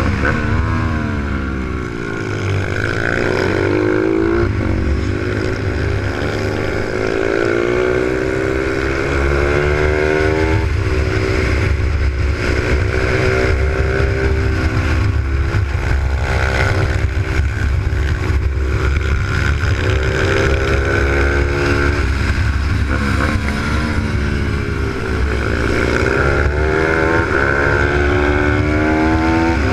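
Z155 pit bike's single-cylinder four-stroke engine at racing revs, heard onboard: its pitch climbs and drops back again and again as the rider accelerates, shifts and brakes through corners, with a brief easing off about two seconds in.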